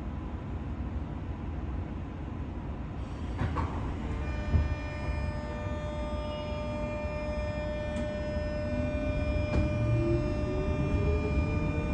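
Interior running sound of a JR West 201 series EMU motor car pulling away and accelerating. Its thyristor-chopper drive gives a set of steady high tones that come in about four seconds in, and the traction-motor whine climbs in pitch through the second half. Under it runs a low rumble of wheels on rail, with a few sharp clicks.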